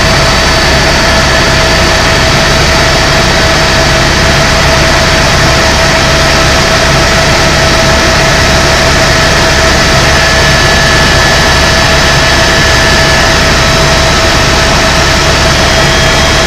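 Tour helicopter in flight heard from inside the cabin: a loud, unchanging rotor and engine drone with a steady whine over a heavy low rumble.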